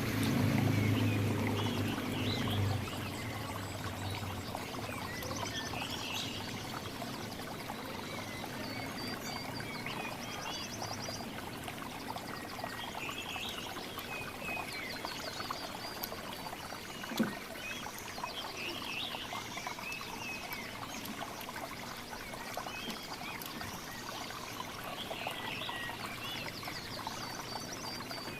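Several small birds chirping and trilling in short, repeated calls over a steady rush like running water. A low hum fades out in the first few seconds, and there is a single sharp click about two-thirds of the way through.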